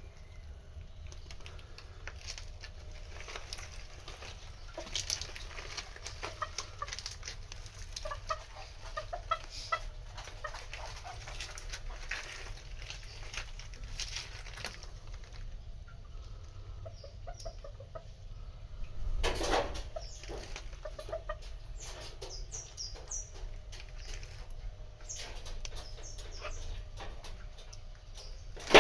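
Chickens clucking as they feed, with many small clicks of pecking. About two-thirds through there is a louder brief rustle, like a flutter of wings, followed by a few high chirps.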